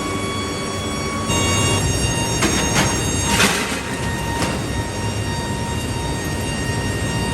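Heavy factory machinery running with a steady hum of several tones over a rumble, typical of a steel scrap-processing plant. A few short harsh rasps come through in the middle.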